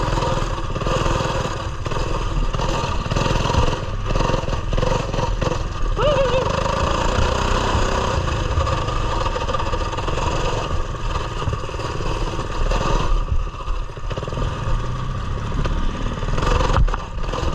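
Coleman mini bike's small single-cylinder four-stroke engine running under way along a trail, with its pitch shifting slightly as the throttle changes.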